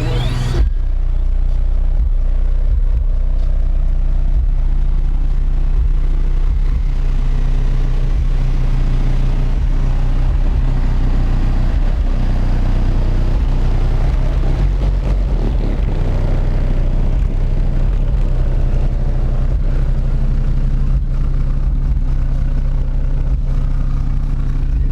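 Car audio system playing loud, deep bass, with steady low notes held throughout.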